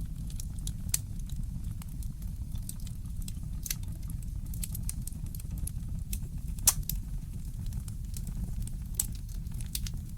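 Wood fire in a fireplace crackling, with irregular sharp pops over a steady low rumble. The loudest pop comes about two-thirds of the way through.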